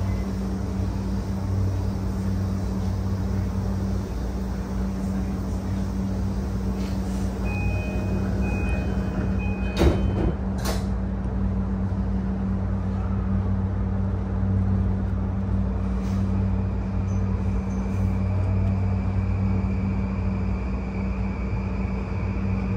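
JR East E235-1000 series electric train running, heard inside a passenger car: a steady rumble of wheels on rail under a low hum. Two sharp knocks come about ten seconds in, and a faint whine rises near the end.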